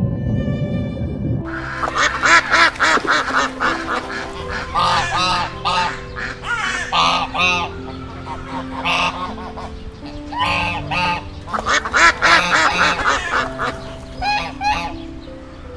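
Waterfowl, most like geese, honking over and over in many overlapping short calls, with soft background music holding notes underneath.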